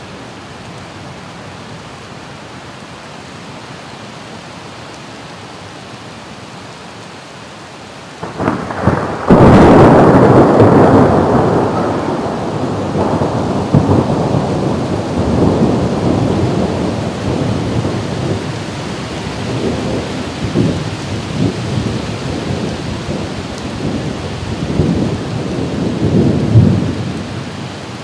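Steady rain hiss, then about eight seconds in a close thunderclap cracks and breaks into a long rolling rumble. The rumble swells and fades several times before dying away near the end.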